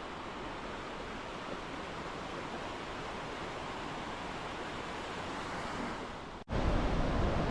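Steady rushing roar of the Iguazú waterfalls. About six and a half seconds in it cuts off abruptly and a louder, deeper noise takes over.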